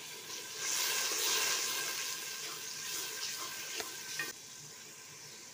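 Pounded tomato, ginger and garlic paste frying in hot oil with browned onions, sizzling as it is stirred with a plastic spoon. The sizzle swells about half a second in and dies down after about four seconds.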